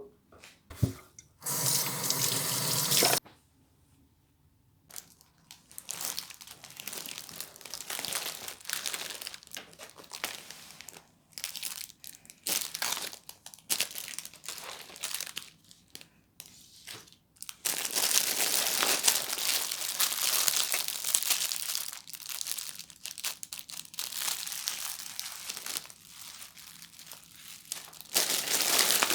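Kitchen tap running briefly about two seconds in, then irregular rustling, crunching and splashing from food preparation, heaviest for a few seconds past the middle.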